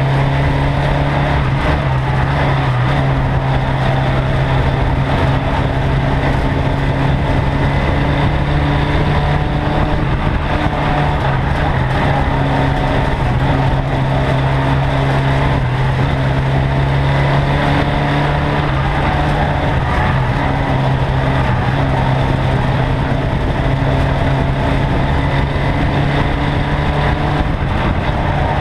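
Ministox Mini race car's engine running hard under racing load, heard on board the car: a loud, steady drone whose pitch shifts a little as the driver lifts and gets back on the throttle.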